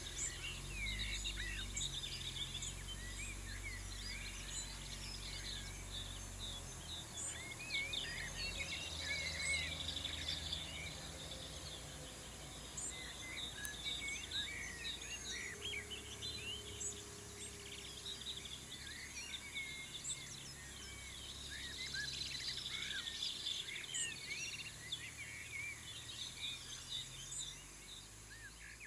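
Several small birds chirping and singing at once, many short quick notes overlapping throughout, over a low steady rumble.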